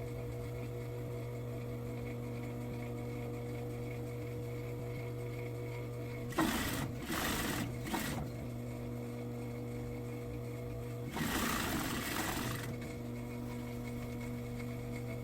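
Sewing machine stitching in two short runs, the first about six seconds in and broken by brief pauses, the second about eleven seconds in. A steady hum runs underneath.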